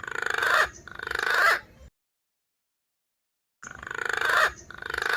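Recorded call of a punai (green pigeon) played as a lure to draw wild birds: a two-note phrase, each note growing louder, repeated after about two seconds of dead silence.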